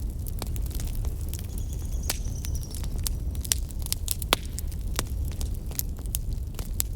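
Wood fire burning in a fireplace, crackling with irregular sharp pops over a low steady rumble of the flames, one pop louder than the rest a little after four seconds in. A faint, thin high whistle sounds briefly around two seconds in.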